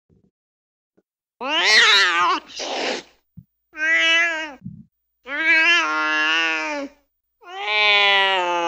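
Recorded domestic cat meows, four long calls in a row that rise and fall in pitch, played back from a cat-sounds app. The last call is still going at the end.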